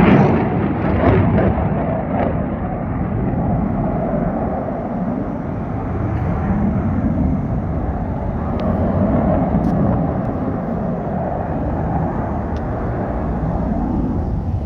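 Jet aircraft engine on afterburner, a loud, continuous rumble with a slow, swirling whoosh that rises and falls in pitch as the jet flies past.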